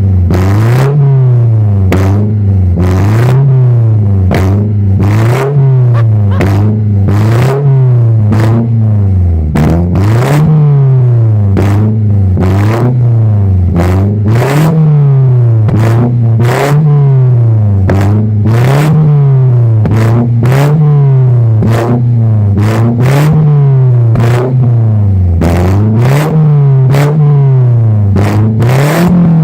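Peugeot 206 GTI four-cylinder engine through a full stainless exhaust with stainless muffler, revved up and down over and over, about once every two seconds. Sharp pops and cracks come out of the exhaust as the revs drop: backfiring on the overrun.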